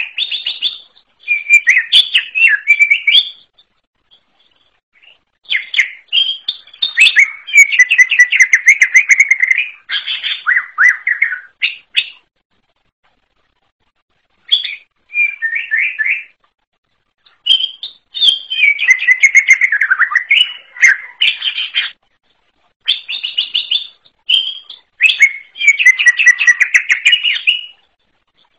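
Leafbird (cucak ijo) singing loudly: varied phrases of rapid notes and short whistles, each lasting a few seconds, with brief pauses between phrases.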